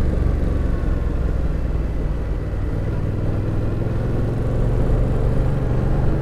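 Yamaha FZ-07 parallel-twin motorcycle engine running at a steady cruise, its low engine note mixed with a steady rush of noise.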